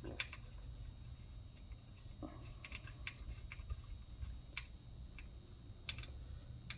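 Faint, irregular light clicks and taps of hand tools and metal parts being handled while fitting the compressor, over a steady low hum.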